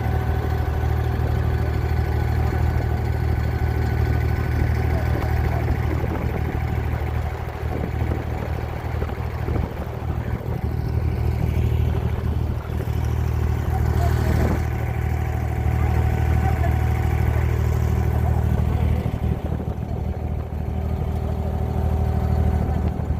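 Abra water taxi's inboard engine running at a steady speed, a loud low drone with a constant hum. A brief clatter comes about two-thirds of the way through.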